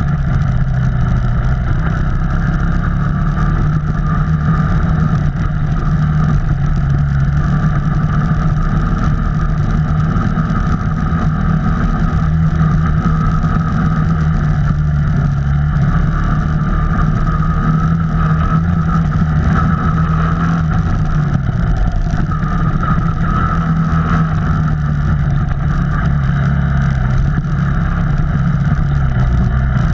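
Off-road vehicle engine running at a steady speed, an even, unbroken drone with little change in pitch.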